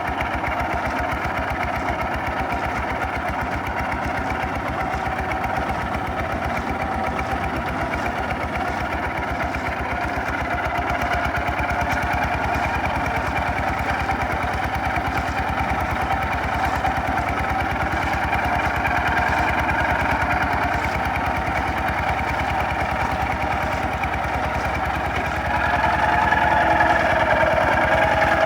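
Single-cylinder diesel engine of a Kubota RT 140 DI walking tractor running steadily with an even chugging beat, getting louder near the end.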